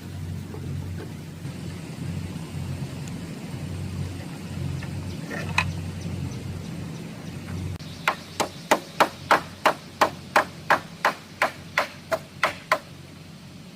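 A steady low rumble, then, about eight seconds in, a quick even run of about fifteen sharp tool strikes, roughly three a second.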